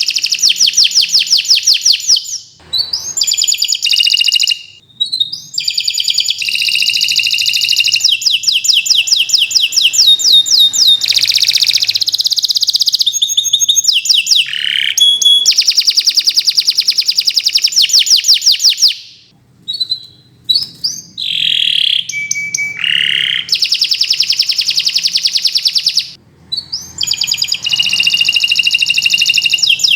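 Domestic canary singing long phrases of fast, rapidly repeated trilled notes, with a few sweeping falling notes, and only brief pauses between phrases.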